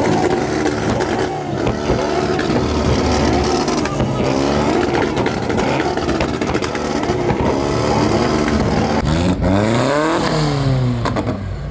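Car engine revved hard over and over, its pitch repeatedly climbing and dropping, with the sweeps coming faster near the end.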